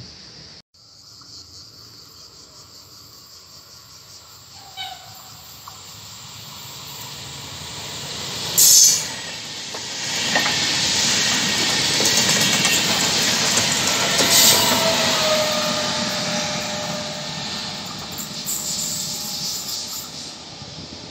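Vivalto double-deck regional train passing at speed: the rail noise builds over a few seconds, is loudest as the coaches go by, and fades away, with a falling whine as it passes. A brief, sharp, high-pitched burst, the loudest moment, comes just before the train reaches the microphone.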